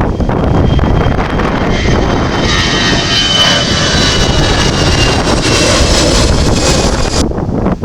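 Airbus A400M Atlas's four turboprop engines going by: a heavy rumbling drone with a high, slightly falling whine that rises in over the first couple of seconds and cuts off suddenly about seven seconds in. Wind buffets the microphone throughout.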